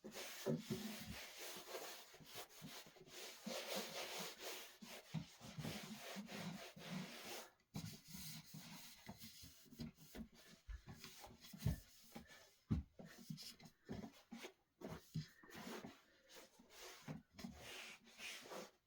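Irregular rubbing and scraping on wood for several seconds, then shorter rubs broken by scattered light knocks, as things are slid and handled on a wooden surface.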